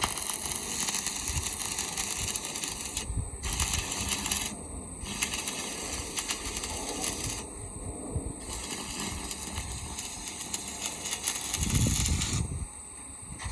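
Electric arc welding crackling and sizzling in stretches, broken by a few short pauses as the arc is broken and struck again, stopping about a second before the end.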